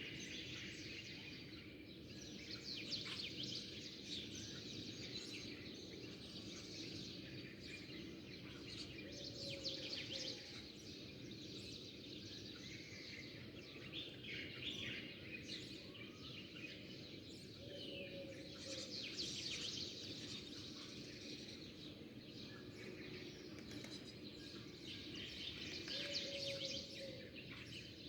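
Small birds chirping and twittering in overlapping bursts. A short, low call repeats about every eight seconds over a steady low background noise.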